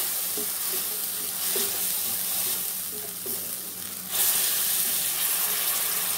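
Ginger and tomato paste sizzling in hot oil in a nonstick kadai while being stirred with a slotted spatula: the masala being fried with whole spices. The sizzle grows louder about four seconds in.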